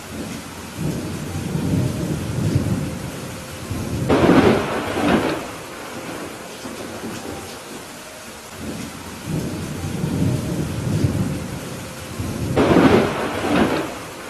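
Thunderstorm: steady rain under two rolls of thunder. Each roll rumbles low, then builds to a louder clap, the first about four seconds in and the second near the end.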